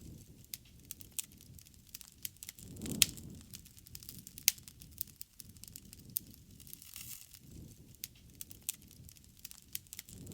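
Wood bonfire crackling with irregular sharp pops, the loudest about three seconds in, over a low rush that swells twice.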